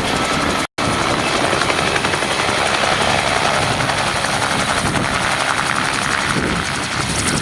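Bell 47 helicopter running, its rotor chopping steadily over the engine noise. The sound cuts out for an instant under a second in.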